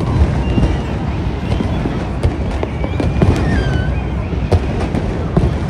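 Fireworks display: a dense, continuous run of bangs and crackles over a low rumble, with a few short whistling tones.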